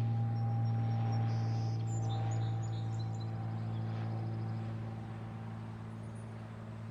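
Cessna 182 Skylane's piston engine and propeller droning as a steady low hum, slowly fading as the aircraft moves away. A few brief bird chirps sound in the first few seconds.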